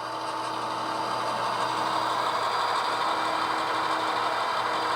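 HO scale model train running slowly along the track: a steady mechanical hum from the locomotive that grows slightly louder.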